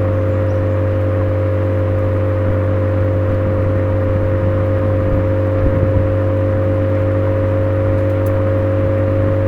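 Suzuki Swift Sport (ZC33S) 1.4-litre turbo four-cylinder through a Fujitsubo aftermarket exhaust, running at a steady engine speed with a constant drone over tyre and road noise. The pitch holds level, with no revving up or down.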